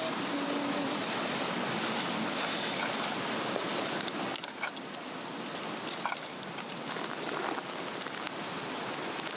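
Swedish torch log fire burning over a steady rushing hiss, with sharp crackles and pops from about four seconds in.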